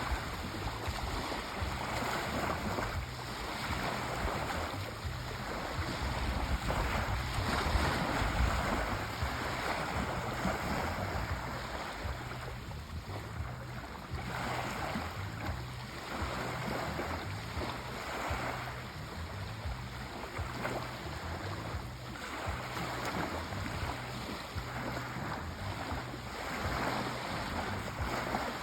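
Sea waves washing in and breaking on a shore, rising and falling every few seconds with steady surf noise between them.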